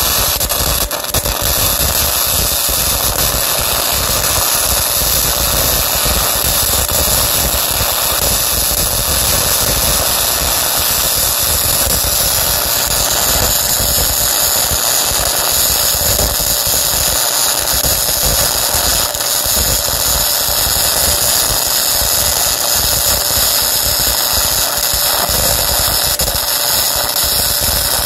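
Modified 120-volt Harbor Freight flux-core wire-feed welder running one long continuous bead on thick mild steel: the arc gives a steady loud crackle and hiss without a break.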